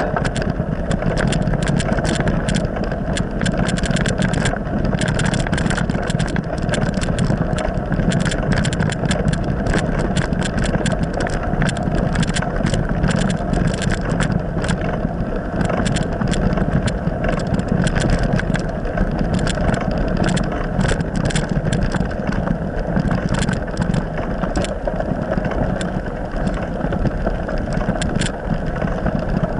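A motor vehicle's engine running steadily while under way, with frequent sharp clicks and rattles.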